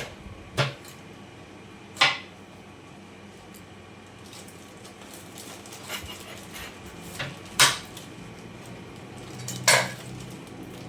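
A kitchen knife striking a cutting board in five separate sharp knocks, spaced unevenly, cracking garlic cloves so they peel easily.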